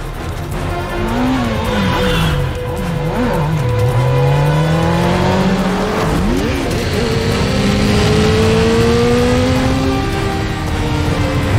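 Car engines revving hard in a chase, their pitch climbing and dropping again several times, with tyre squeals, mixed with film score music.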